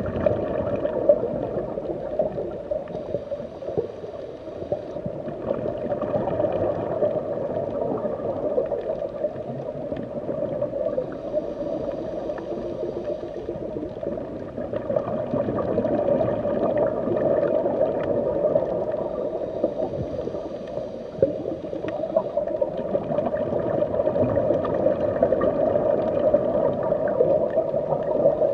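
Underwater ocean ambience: a steady gurgling wash of water with a crackling texture, swelling and easing slowly.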